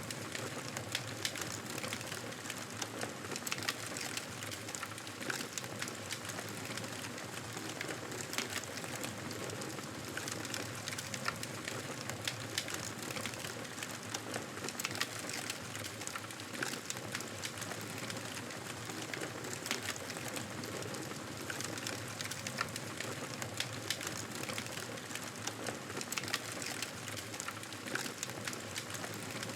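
Wood fire crackling in a fireplace: frequent small pops and ticks over a steady hiss.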